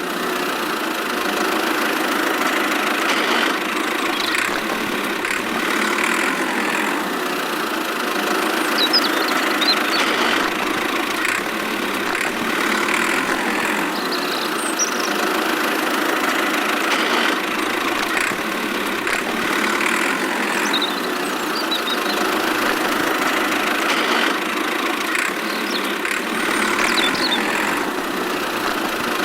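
Small motor of a miniature DIY tractor running steadily.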